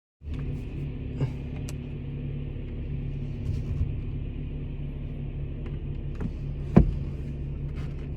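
Steady low rumble of a car's engine heard inside the cabin, with a few light clicks and one sharp knock about seven seconds in.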